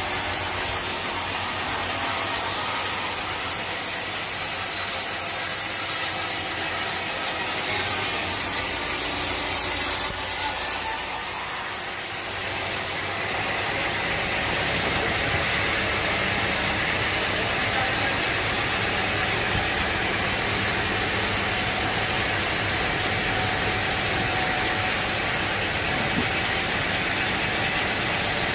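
Sawmill machinery running steadily, a dense mechanical noise with hiss. Partway through, the sound shifts as a low hum comes in.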